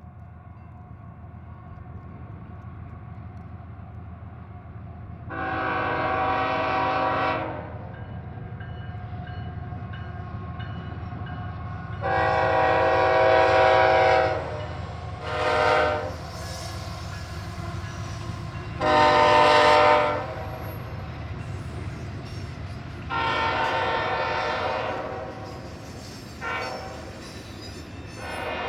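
Diesel locomotive horn sounding a series of long and short chime blasts (about seven in all) over the steady low rumble of the locomotive's diesel engine, which grows louder as the train comes closer.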